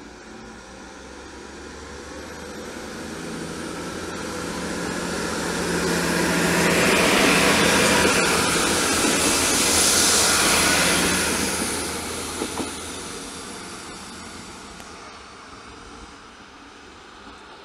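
Arriva LINT 41 diesel railcar passing close by: its engine and wheels on the rails grow louder as it approaches, are loudest about seven to eleven seconds in, then fade as it moves away.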